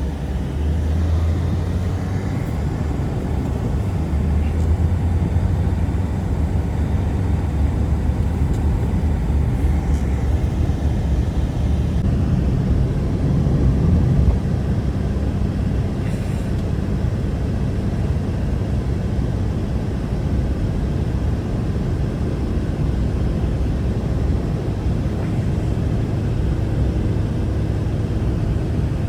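Strong blizzard wind blowing steadily, a deep rumbling roar with no breaks.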